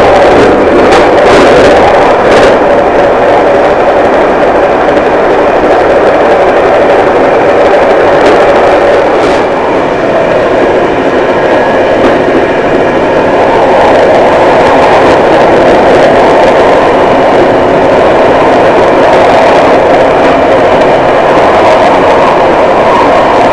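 Passenger train running, heard from inside the carriage: a steady rumble with a few sharp clicks from the wheels and rails in the first seconds and again about eight seconds in.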